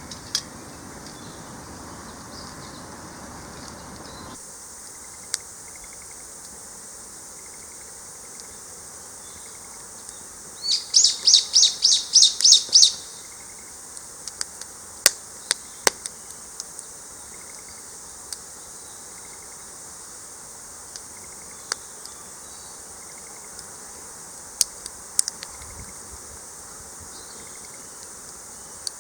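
Outdoor rural ambience: a steady high insect drone, broken about eleven seconds in by a bird's song of about eight quick repeated notes over two seconds, the loudest sound here. Scattered sharp clicks fall here and there.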